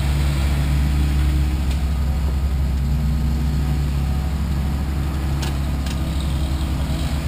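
Off-road vehicle engine running steadily at low revs as the rig is backed slowly over rocks, with two short clicks about two-thirds of the way through.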